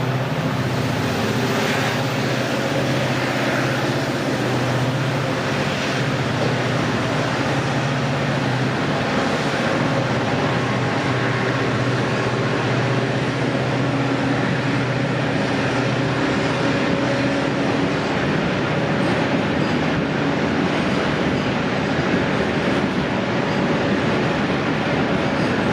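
WDG-4D diesel locomotive passing, its EMD two-stroke diesel engine running with a steady low drone. About two-thirds of the way in, the drone fades into the rolling rumble of the train's cars on the rails.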